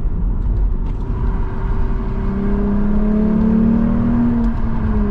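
Lexus IS350's 3.5-litre V6 accelerating through an F Sport exhaust with the resonator deleted. The engine note climbs steadily for a couple of seconds, then eases off near the end as the throttle is lifted.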